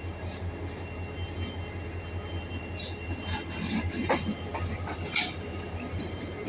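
CSR passenger train pulling into the platform: a steady low hum under faint high whining tones, with short metallic wheel squeals about three, four and five seconds in.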